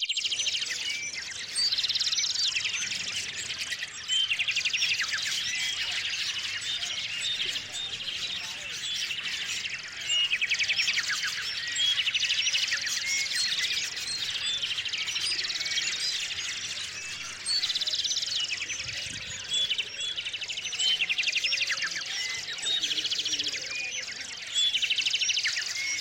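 Small songbirds chirping and calling, many at once, with a short trill that comes back every few seconds.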